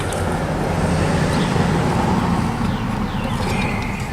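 A motor vehicle going by, a steady rumble that builds and then slowly fades.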